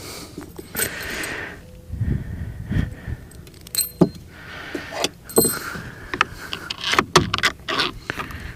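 Hands working on an outboard remote control box and its cables: a run of irregular small clicks, knocks and rattles of metal and plastic parts, with rustling and scraping in between.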